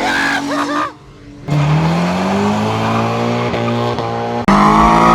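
Car engines in quick cuts. A wavering, squealing tone for about the first second, then a short drop, then a car engine accelerating with its pitch climbing steadily. Near the end it cuts abruptly to a louder engine.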